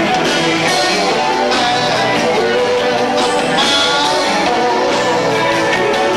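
Live rock band playing a fast, loud number, with electric guitar, bass and two drummers. It is heard lo-fi through a 1990s camcorder's built-in microphone, with no separate audio recording.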